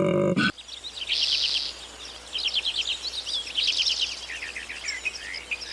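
A songbird singing: three bursts of rapid high chirps, then a looser run of varied notes. It opens with the tail of a loud, low pitched call that cuts off about half a second in.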